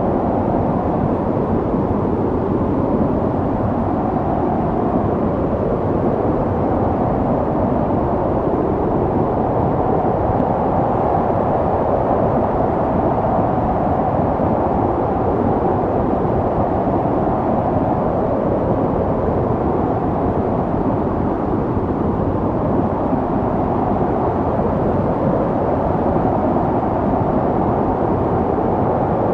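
Snowstorm wind blowing steadily: a deep, even rushing with a slowly wavering hollow tone in its middle and little hiss.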